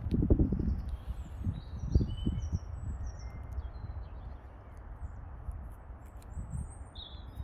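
Birds chirping in short, high notes, over low rumbling thumps that are strongest in the first two seconds.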